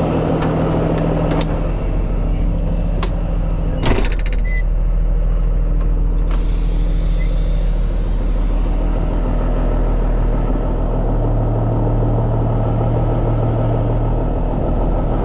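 Heavy diesel truck engine running steadily, with a few sharp metallic clicks and one louder knock about four seconds in. The engine note grows fuller for a few seconds past the middle.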